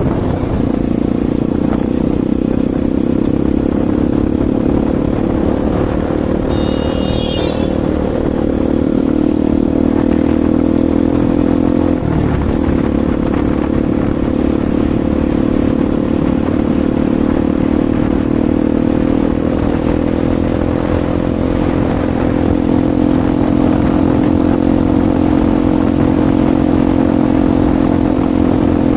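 Bajaj Pulsar NS200's single-cylinder engine running steadily at an even pitch through an aftermarket Akrapovic exhaust. A brief high-pitched tone sounds about seven seconds in.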